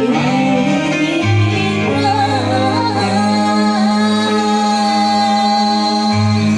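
A singer with band accompaniment, holding a long wavering note over steady bass notes and guitar.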